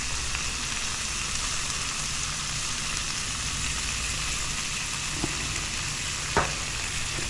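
Salmon fillets and sweet potato slices sizzling steadily on a hot propane flat-top griddle, with a low steady hum underneath. Two light clicks come near the end.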